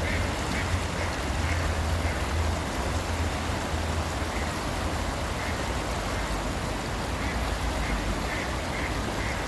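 Ducks quacking in short, repeated calls, several in the first second or two and again in the last couple of seconds, over a steady low rumble and hiss.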